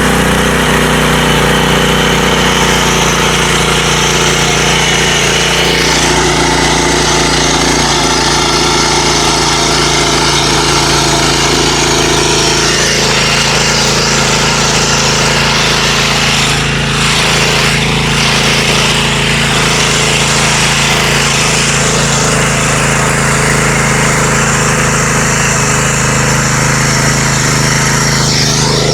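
9 hp petrol engine running steadily, with a slight dip and recovery in speed partway through.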